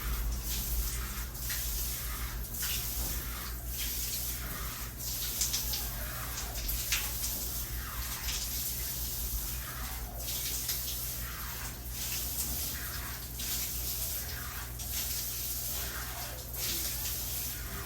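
Water splashing and sloshing in repeated strokes, about one a second, over a steady low hum.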